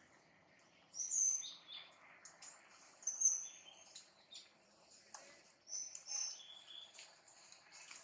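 Wild birds chirping: short, high-pitched calls, with louder notes about one second in, about three seconds in, and a cluster around six seconds, over a faint outdoor hiss.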